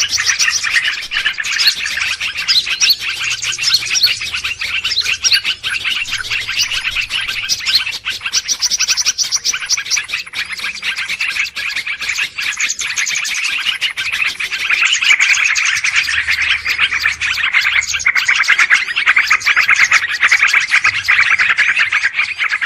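A dense chorus of many small birds chirping and chattering at once, with no pause, growing a little louder about two-thirds of the way through.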